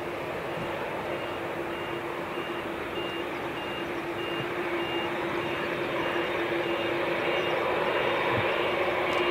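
Jet airliner engines with a steady roar and hum that grow slowly louder. Over it, a high electronic beep sounds about every 0.6 s, like a vehicle's reversing alarm.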